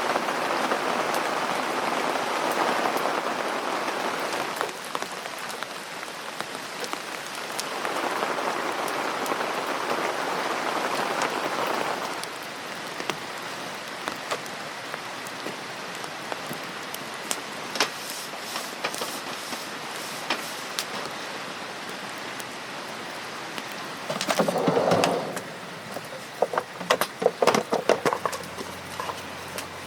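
Rain falling on a tent, with scattered drops ticking on it and two louder rushes of heavier noise in the first half. Near the end there is a louder rustle, then a quick run of sharp knocks and clatters.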